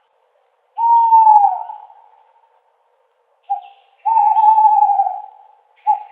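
Owl hooting: a long, even hoot about a second in that sags in pitch at its end, then a short note followed at once by a longer hoot, and another short note near the end, with silence between.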